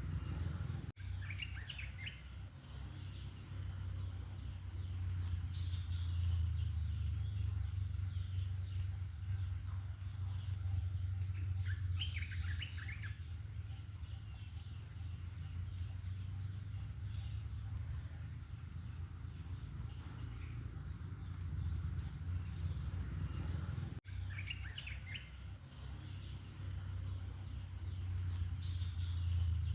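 Outdoor ambience: a steady low rumble, with short bursts of bird chirping three times and a faint, evenly pulsing high buzz like an insect throughout.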